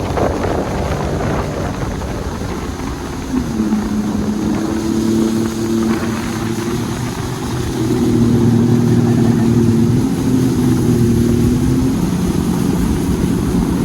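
Jet ski engine running under way. Its pitch steps up about three and a half seconds in, and it gets louder about eight seconds in.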